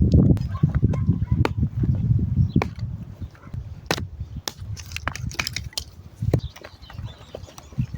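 Irregular crunching with sharp knocks and clicks, dense in the first few seconds and then sparser.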